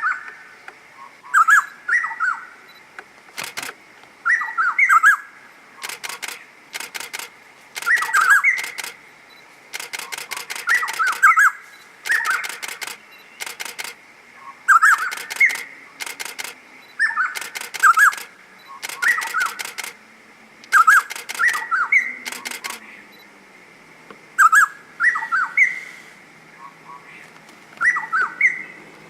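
A songbird repeating a short whistled song phrase every second or two. Runs of sharp, rapid clicks come in between the phrases.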